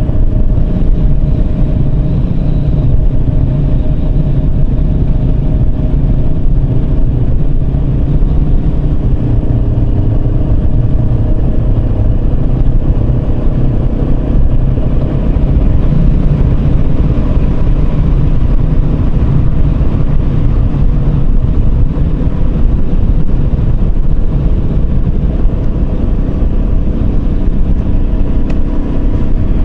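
Yamaha Serow 250's air-cooled single-cylinder engine running at a steady cruise, with heavy wind noise on the microphone.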